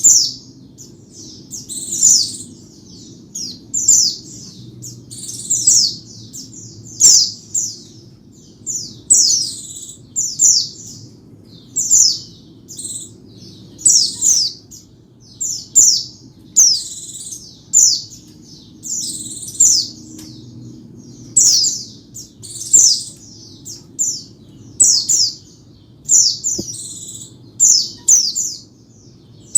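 A white-eye (pleci) singing: short, high-pitched chirping phrases of quick falling notes, repeated about every second or so, over a faint low hum.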